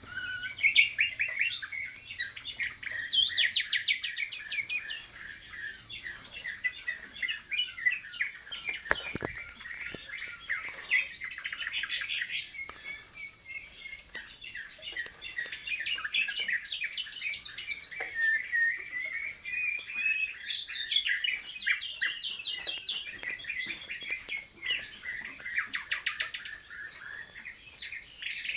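Canaries and a young nightingale singing together: a long unbroken stream of fast trills, rolls and chirps, with high whistled phrases around the middle. A single knock sounds about nine seconds in.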